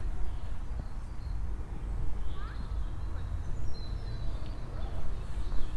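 Footsteps walking along a path over a steady low rumble, with small birds giving a few short rising chirps near the middle.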